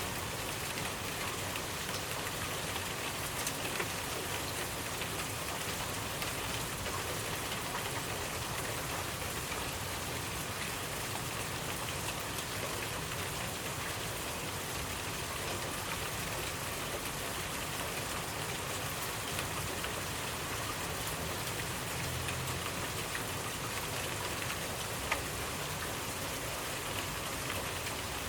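Steady rainfall, an even hiss of rain with many small drop impacts, and one sharper drop hit near the end.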